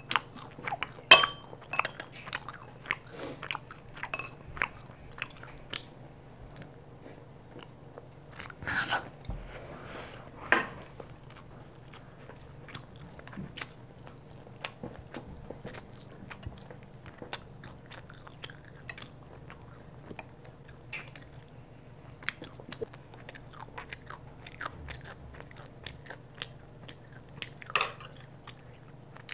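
A child chewing bulgogi with her mouth close to a clip-on microphone: wet smacking mouth clicks scattered throughout, with a few louder clicks, the loudest about a second in.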